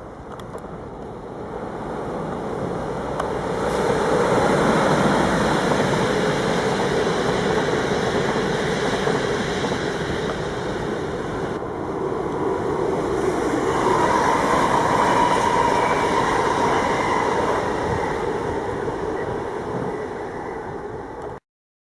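A train running past on the track, a steady rushing rumble that builds over the first few seconds and stays loud. A higher whine joins about two-thirds of the way through. The sound cuts off suddenly near the end.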